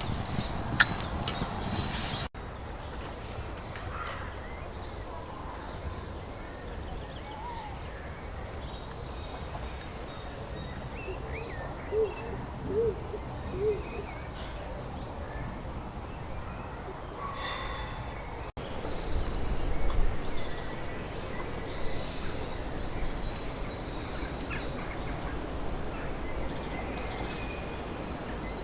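Woodland birdsong: many small birds chirping and trilling, with three short low hooting notes about twelve seconds in. A few sharp knocks sound in the first two seconds, and a brief low rumble comes about two-thirds of the way through.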